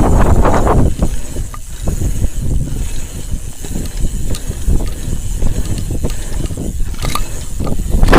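Hardtail mountain bike riding a dirt pump track: tyres rolling over packed dirt under a heavy, steady wind rumble, with a few sharp clicks of the bike's parts.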